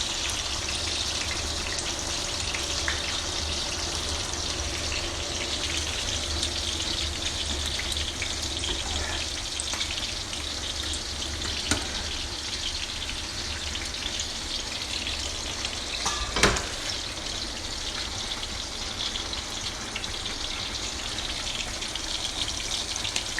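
Chicken pieces deep-frying in hot oil: a steady sizzle flecked with small crackles. A sharp click comes about 12 seconds in, and a louder knock about 16 seconds in.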